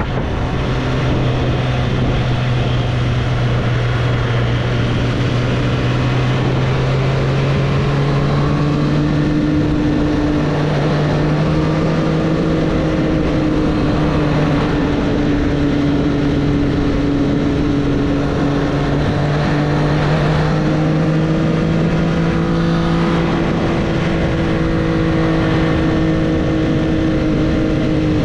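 2024 Triumph Street Triple's 765 cc inline-three engine running at steady riding revs, its note rising gently over the first half and then holding, with wind rush around it.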